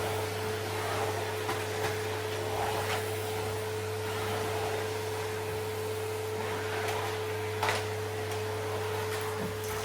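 Kärcher vacuum cleaner running steadily, a constant motor hum and airflow hiss, with a few light knocks as it is worked over the floor.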